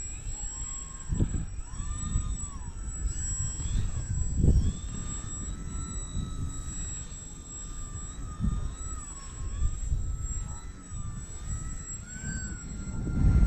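Electric motor and propeller of a small RC 3D aerobatic plane whining overhead, the pitch rising and falling as the throttle changes. Gusts of wind buffet the microphone with low rumbles, strongest about a second in, about four and a half seconds in, and near the end.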